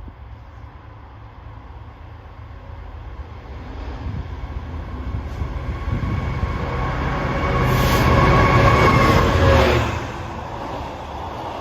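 Freight train approaching and passing. The rumble builds to its loudest about eight to ten seconds in as the locomotive goes by, with a few steady tones over it, then falls to a lower, steady rolling of the wagons.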